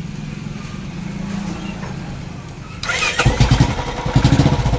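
Royal Enfield Classic 350's single-cylinder engine being started after a repair for a knock on start-up: it catches suddenly about three seconds in and runs on with a steady, even beat, after a low steady hum.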